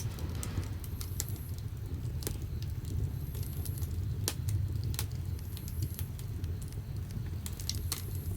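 Firewood burning in the firebox of a wood-fired bath heater: irregular sharp crackles and pops over a low, steady rumble of the fire.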